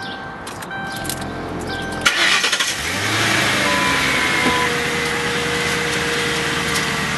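2001 Lincoln Town Car's 4.6-litre V8 being started after a fresh oil change: a repeating electronic chime, then the engine cranks, catches suddenly about two seconds in and settles into a steady idle.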